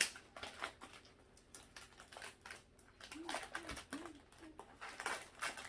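Plastic cookie packaging being crinkled and handled in irregular crackles, as a large pack of Dutch speculoos cookies is opened. A few short, soft, low-pitched sounds come about three to four seconds in.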